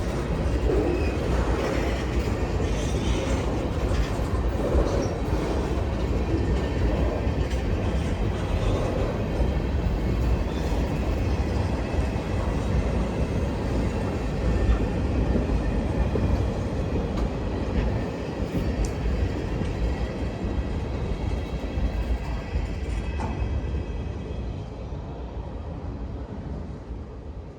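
Diesel-hauled freight train rolling past, a steady low rumble with wheel-on-rail noise, the train led by a GP9U road-switcher locomotive. The sound fades away gradually over the last several seconds as the train moves off.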